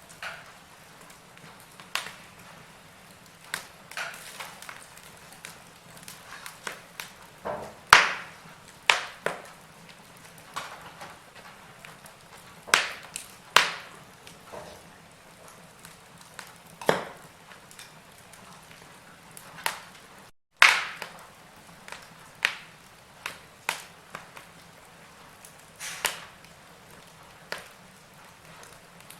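Wood logs burning in a fireplace, crackling with irregular sharp pops of varying loudness over a soft hiss. The sound cuts out for a split second about twenty seconds in.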